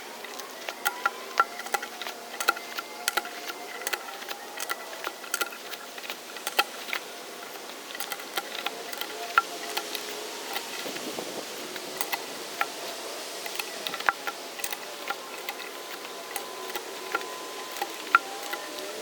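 A pickup truck's engine running with a hum that wavers in pitch, overlaid with many sharp clicks and ticks throughout.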